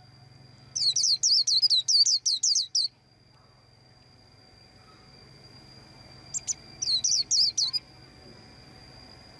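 A white-eye chirping: a quick run of about eight short, sharp high notes, then after a pause a second, shorter run of about five, with a faint steady high tone underneath.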